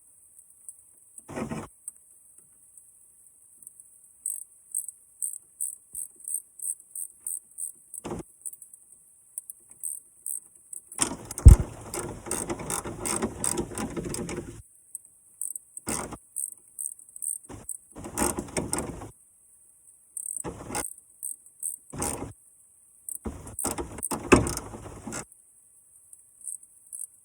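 Intermittent clanks and rattles of hand-tool work on a truck, with one sharp knock about halfway through.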